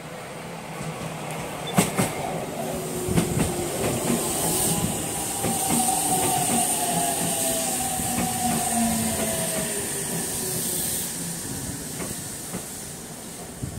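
An Aonami Line electric train running through the station without stopping. Its wheels clack sharply over rail joints about two and three seconds in, and a whine slides down in pitch as the cars go by. The noise builds as it comes alongside and fades as it moves away.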